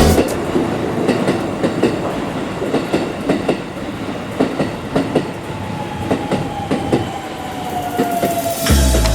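Electric commuter train on the Shin-Keisei Line, its wheels clattering over the rail joints in irregular clacks. From about halfway a whine slowly falls in pitch as the train slows.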